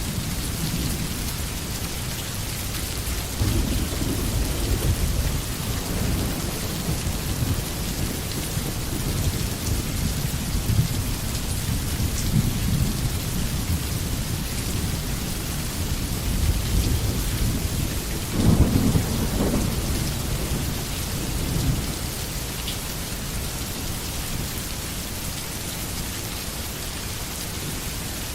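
Steady rain falling with a low rumble of thunder beneath it that swells and fades, loudest about two-thirds of the way through, then settles back to just rain.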